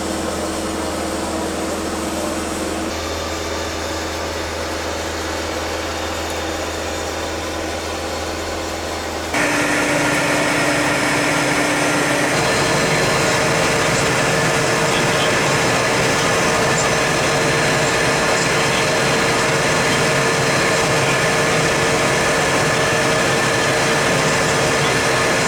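Steady hum inside the cabin of an Embraer Phenom 300 business jet, with its Pratt & Whitney PW535E turbofan engines running. It steps louder about nine seconds in, and from then on a steady engine whine sits over the hum as the jet taxis.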